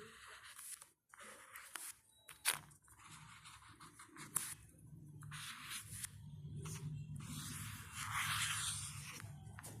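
Intermittent scraping and rustling close to the microphone, with a couple of sharp clicks, over a faint low hum.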